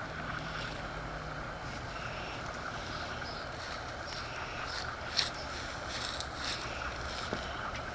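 Soft rustling and scraping of potting soil being sifted and picked through on a compost screen, over a steady low background hum, with one sharp tick about five seconds in.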